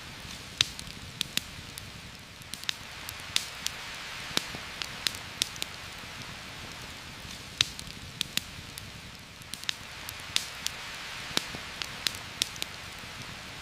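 Heavy rain falling steadily, with a campfire crackling over it in sharp, irregular pops, one or two a second.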